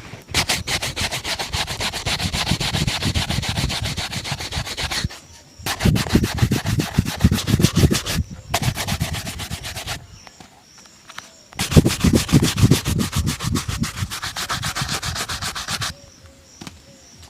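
Rapid back-and-forth polishing strokes on a shoe during a hand shoe shine, several strokes a second, in four runs broken by short pauses.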